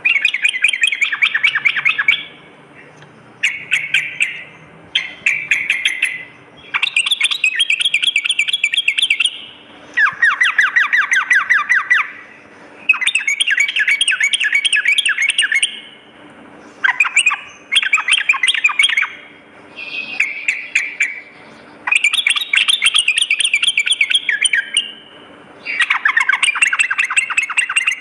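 Yellow-vented bulbul (trucukan) singing: repeated bursts of rapid, chattering notes, each phrase lasting a second or two, with short pauses between them.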